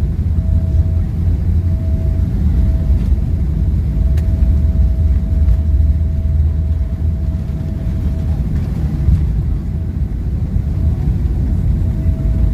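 Boeing 777 cabin noise during landing: a steady low rumble of engines and airflow, with a faint steady whine above it.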